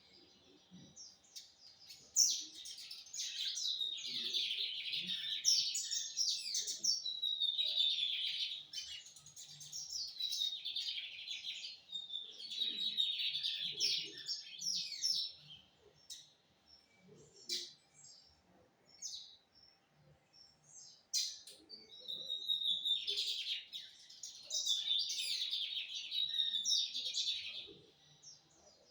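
Lined seedeater (bigodinho) singing its São Luís–style song: several bouts of rapid, high twittering phrases, with a long pause in the middle before it sings again near the end.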